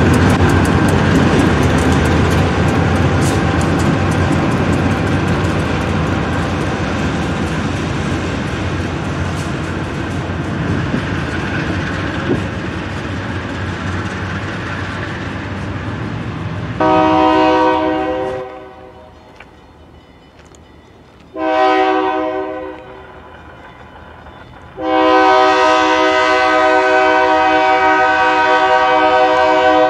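Providence and Worcester freight train's diesel locomotives and cars rumbling and rattling past, slowly fading as it pulls away. Then the locomotive horn sounds three times: a blast, a short blast, and a long blast near the end.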